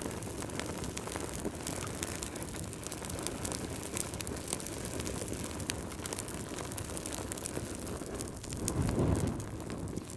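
Wood fire crackling: a steady low flame noise with many small sharp pops, swelling briefly about nine seconds in.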